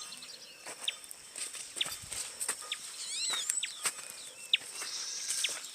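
Birds chirping: scattered short, high chirps, with a quick burst of twittering notes a little past the three-second mark.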